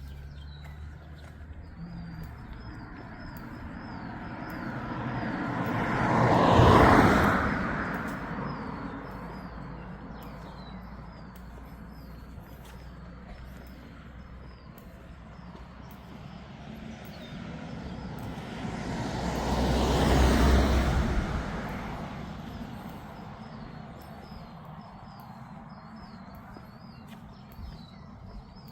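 Two vehicles pass by, each swelling up and fading away, the first about seven seconds in and the second about twenty seconds in. A bird chirps repeatedly in the background.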